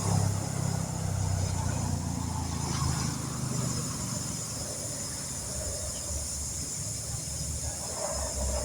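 A vehicle engine idling steadily, a low, even hum with a constant hiss over it.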